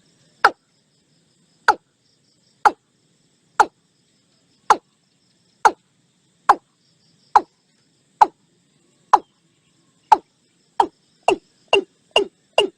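Watercock calling: a series of short notes, each sweeping quickly downward in pitch, about one a second, quickening to two or three a second near the end.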